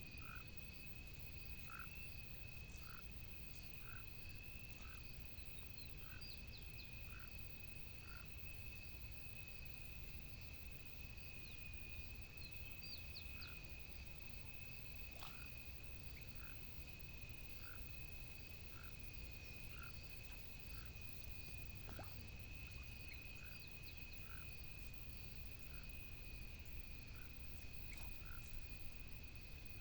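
Frogs calling at the water's edge: short calls repeating about once a second over a steady high-pitched trill, with scattered higher chirps.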